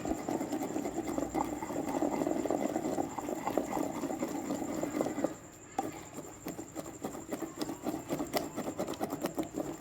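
Pestle grinding a wet paste of red chillies and salt in a mortar: continuous rubbing and scraping for about five seconds, then, after a brief pause, a run of quicker separate knocks and taps.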